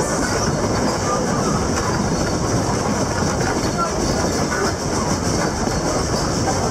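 Puffing Billy narrow-gauge heritage train under way, heard from aboard an open carriage: a steady rumble and rattle of the wheels and carriages on the track.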